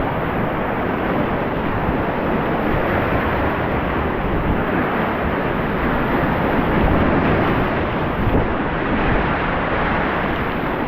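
Whitewater rapids of a rocky creek rushing steadily and loudly.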